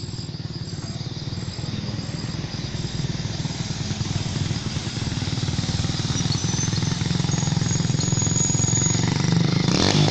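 A small motorcycle engine running with a fast, even putter, growing gradually louder.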